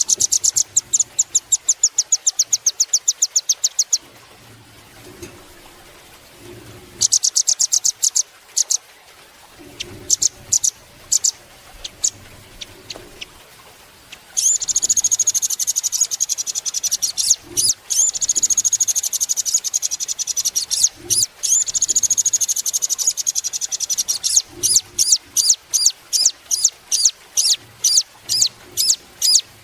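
Velvet-fronted nuthatch calling: rapid trills of sharp, high notes, a dense run of chatter in the middle, then separate notes about two a second near the end.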